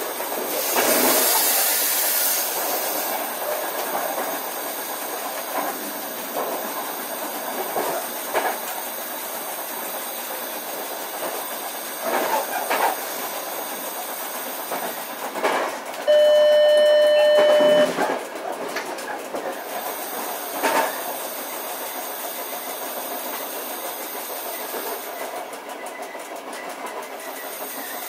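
Passenger train running, heard from inside the driving cab of a double-deck Piano Ribassato driving trailer: a steady rumble and hiss, with a wheel knock over rail joints or points every few seconds. About two-thirds of the way through, one steady pitched warning tone sounds for almost two seconds and is the loudest sound.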